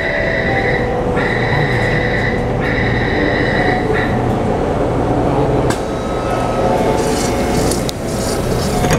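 Door-closing warning beeps on a Taipei Metro C301 train standing at a platform: a steady high beep sounding three times over the first four seconds, then a single knock about six seconds in, over the train's steady rumble.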